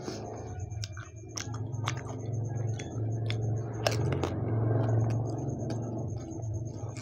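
Close-up chewing of pani puri: wet, squishy mouth sounds with crisp crunches and clicks from the fried puri shells. A sharp crack about four seconds in as a fresh puri is bitten, followed by louder chewing.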